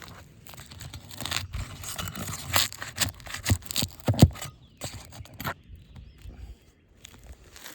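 Asphalt roof shingles scraped and torn as one is worked loose, an uneven run of rasps and a few sharp knocks, busiest in the first five seconds and easing off near the end.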